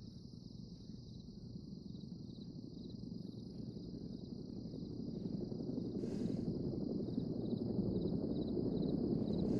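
Low rumble of an approaching helicopter, growing steadily louder, over a steady high chirping of insects.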